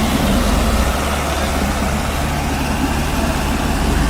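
Tractor diesel engines running steadily under heavy load as two tractors pull against each other in a tug-of-war, with a low, even throb.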